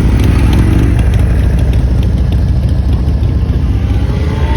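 Motorcycle engines running with a steady low rumble. Near the end a faint, slowly rising whine comes in.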